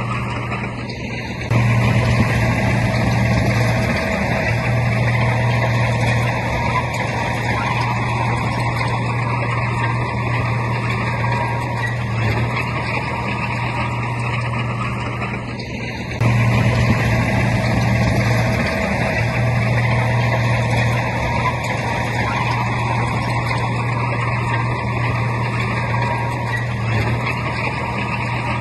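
Heavy diesel engine of earthmoving machinery running steadily under load, with a deep, even hum. The level steps up suddenly about a second and a half in, and again about halfway through.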